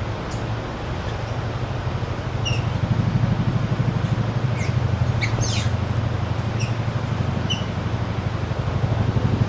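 Wild birds giving short, high chirps every second or so, several of them quick falling notes in a cluster a little past the middle, over a steady low rumble.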